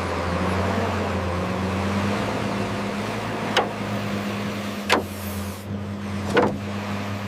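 Small electric motor of an RC construction machine running with a steady hum, and three sharp knocks a little past halfway and near the end.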